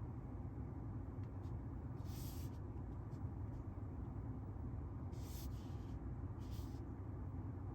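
Maserati Ghibli Trofeo's 3.8-litre twin-turbo V8 running steadily with a low, even rumble and no revving. Three short hisses are heard about two, five and six and a half seconds in.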